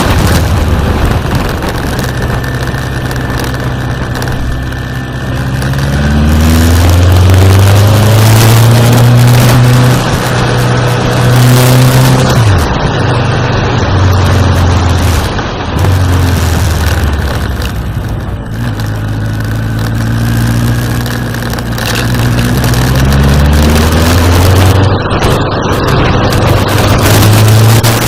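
Suzuki GSX1400's inline-four engine pulling hard while riding, its pitch climbing under acceleration several times and dropping sharply at gear changes, over steady rushing wind noise.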